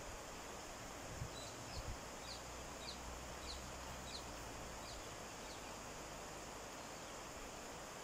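A small bird calling a run of about eight short, high chirps, roughly two a second, over a steady outdoor hiss. A few low thumps come near the start.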